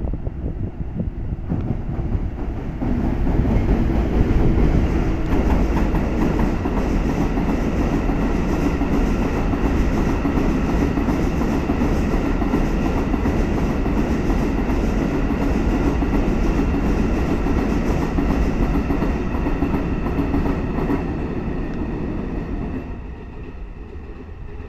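Freight train of empty hopper wagons behind an EF510 electric locomotive passing at speed: a steady rumble of wheels on rail with a rapid clickety-clack over the rail joints. It builds over the first few seconds and fades as the end of the train goes by near the end.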